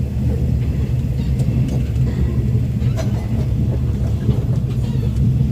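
Moving train heard from inside a sleeper coach: a steady low rumble of the wheels running on the track, with scattered light clicks and rattles and one sharper click about three seconds in.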